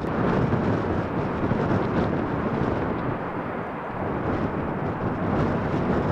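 Jet airliner engine rumble mixed with gusty wind buffeting the microphone, rising in level at the start and then holding steady.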